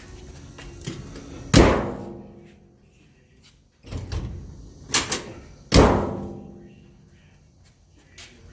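Steel cab door of a 1956 Chevrolet pickup slammed twice, each a sharp bang with a long ringing decay, with smaller latch and handle knocks between them.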